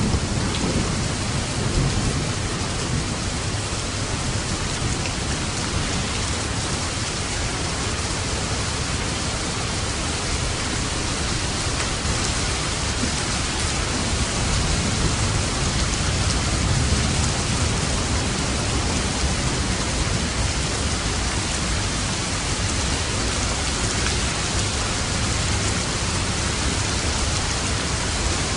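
Steady heavy rain falling, with low thunder rumbling at the start and again faintly near the middle.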